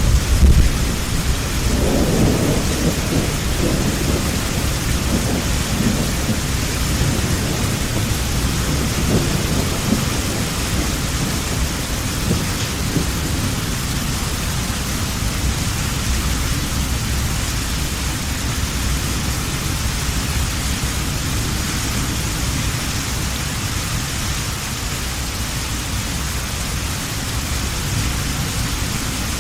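Heavy thunderstorm: steady hard rain throughout, with thunder rumbling loudest right at the start and rolling on through the first half before it fades into the rain.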